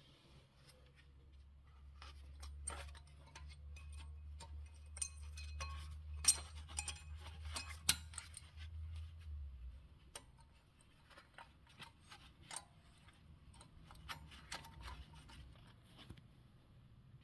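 Scattered metallic clicks and clinks of hand tools and brake parts being handled, the sharpest about six and eight seconds in. A low hum runs under the first half and stops.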